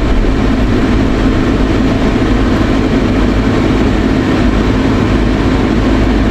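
Steady cabin noise of a vehicle being driven: low engine and road rumble with an even hiss, no distinct bumps standing out.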